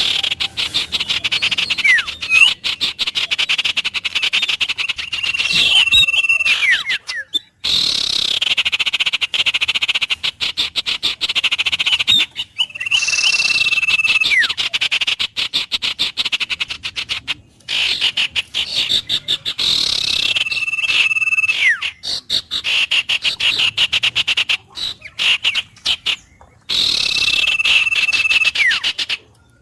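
Wild nature chorus of frogs and birds: a dense stream of rapid, clicking trills, with a bird's whistled call repeating about every seven seconds, a held steady note followed by a quick falling glide. The chorus cuts out briefly several times.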